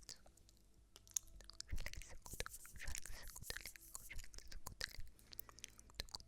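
Close-miked ASMR crunching and crackling: irregular sharp clicks, thickest a couple of seconds in.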